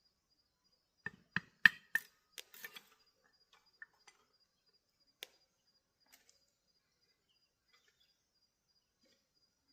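A quick run of sharp snaps and knocks about a second in, followed by a few scattered clicks, over a faint, steady, evenly pulsed insect chirping.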